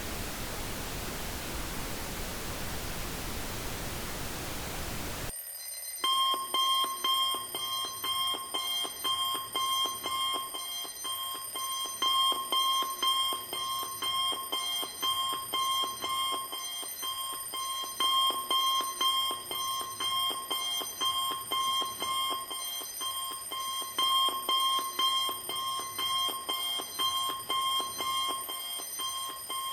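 Steady pink noise hiss that cuts off abruptly about five seconds in, replaced by an alarm: a fast repeating tone pattern that swells in loudness every few seconds, signalling the end of a 20-minute power nap.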